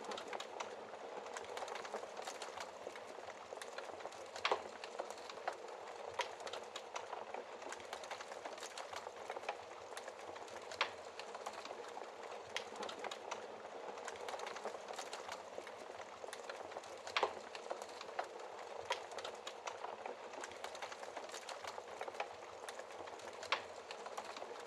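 Wood fire burning in a fireplace: a steady hiss and rustle of flames with scattered sharp crackles and pops, a few louder snaps standing out.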